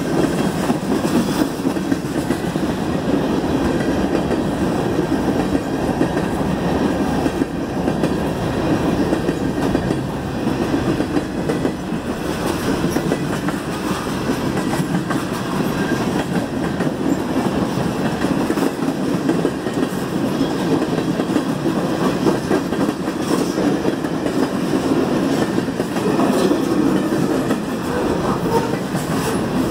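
Freight cars of a CN train rolling steadily past a grade crossing: a continuous rumble of steel wheels running on the rails.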